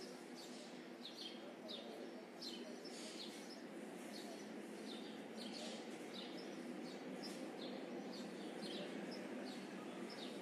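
Small birds chirping: short high chirps, each dipping in pitch, repeated about twice a second over a steady low background hum.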